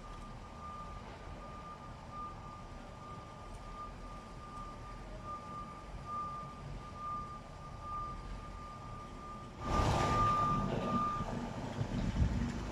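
Truck's reversing alarm beeping steadily over low engine noise. Near the end a loud rushing noise comes in and the beeping stops soon after.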